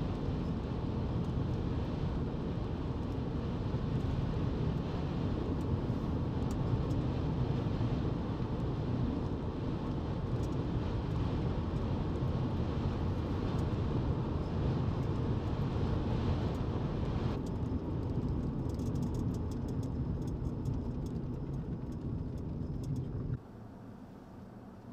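Steady rumbling road and engine noise of a moving car, which cuts off abruptly near the end.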